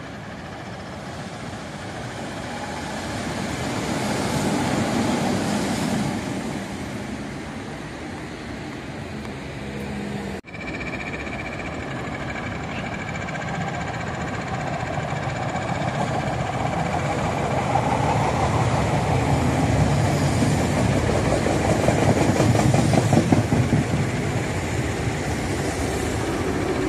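A red-and-white Meitetsu electric train approaching and running past on the tracks below. Its rail noise and wheel clatter grow steadily louder to a peak a few seconds before the end, and a motor whine falls in pitch as it goes by.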